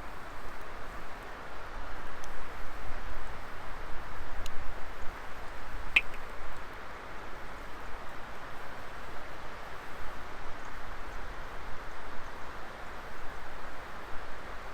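Wood fire burning: a steady rush of flame with a few small crackles and one sharp pop about six seconds in.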